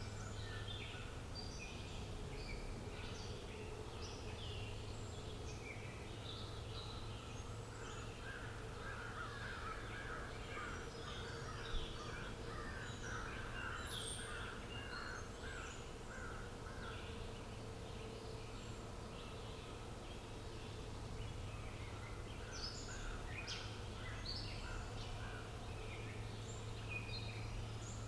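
Outdoor birdsong ambience: several birds chirping and calling, with a fast run of repeated calls through the middle. A steady low hum runs underneath, and there is one brief click a little before halfway.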